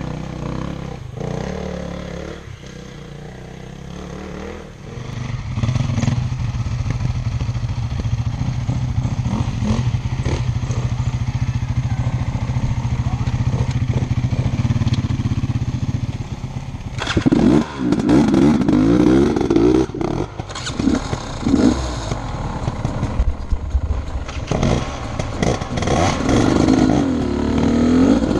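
Enduro motorcycle engine running at fairly steady revs, then a little past halfway revving hard up and down again and again.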